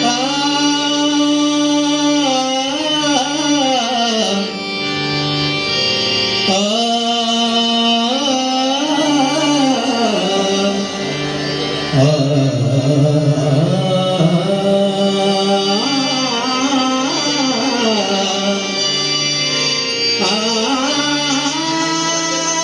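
A singer's wordless, gliding vocal phrases over a steady held drone, opening a Marathi abhang (devotional song).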